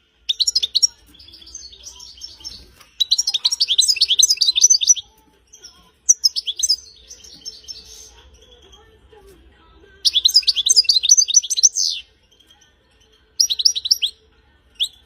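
European goldfinch singing: bursts of fast, high twittering phrases, each lasting half a second to two seconds, with short pauses between them.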